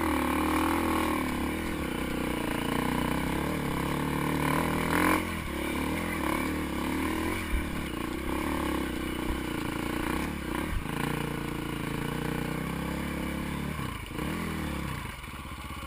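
Dirt bike engine running with its revs rising and falling, and a few short knocks.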